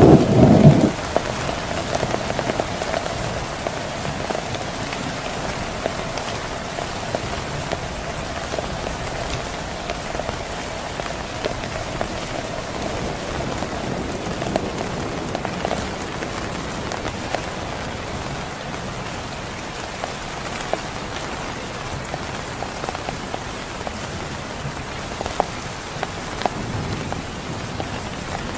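Heavy rain falling steadily on a surface, with scattered louder drops ticking through it. A loud low rumble comes in the first second.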